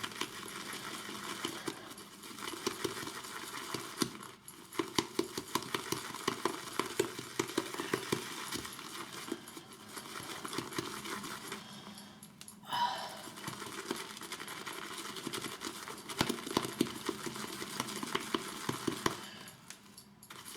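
Horsehair shaving brush whipping soap lather in a bowl: a continuous fine, wet crackling of bristles working the lather against the bowl, stopping briefly a few times.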